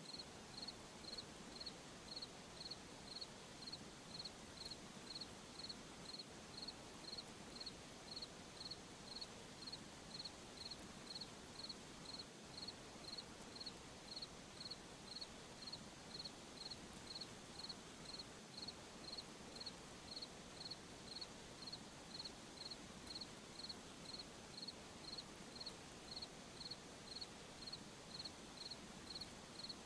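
A cricket chirping steadily: a short, high chirp repeated at an even rate, about three every two seconds, over a faint hiss.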